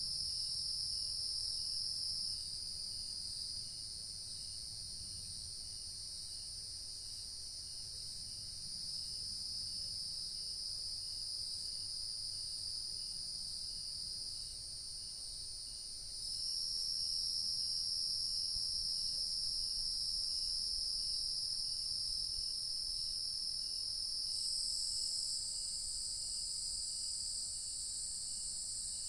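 Dusk chorus of crickets and other insects. Several high, steady trills overlap, growing louder and softer as individual callers join or drop out. A fainter chirp repeats about one and a half times a second.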